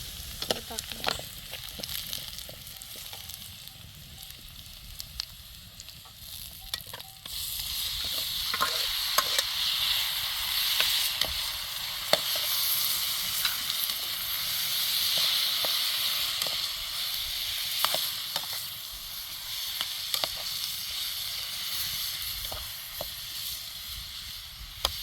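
Steady sizzling hiss with scattered short clicks and taps, growing louder about seven seconds in.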